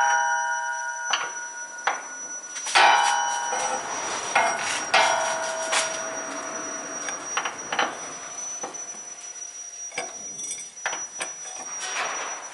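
Metal tools knocking and clanking against metal, a few sharp strikes that ring on briefly, followed by lighter clicks and taps. A faint steady high-pitched whine runs underneath.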